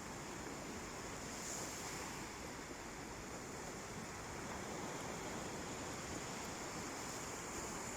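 Calm sea waves washing steadily onto the shore, a continuous surf hiss with no distinct breaking crash, and a thin steady high-pitched tone over it.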